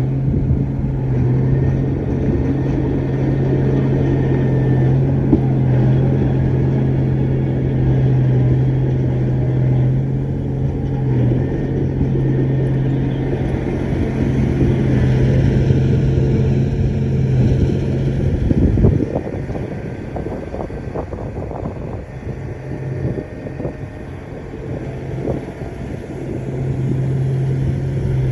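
Heavy diesel earthmoving machine running with a loud, steady engine drone. About two-thirds of the way in the drone drops away and a few sharp clanks are heard. The engine note comes back near the end.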